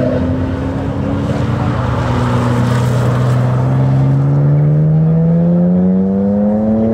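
Nissan R32 Skyline GT-R's RB26 straight-six engine as the car drives around a skidpan, its pitch holding fairly steady and then rising from about four seconds in as it accelerates.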